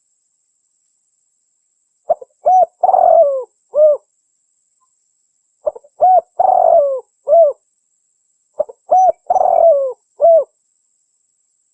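Spotted dove (tekukur) song played from a lure recording: three cooing phrases, each a few short coos with one longer drawn-out coo in the middle, repeating about every three seconds.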